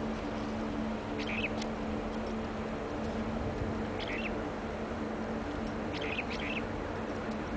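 Short bird chirps in three brief bouts, over a steady low hum and constant background noise.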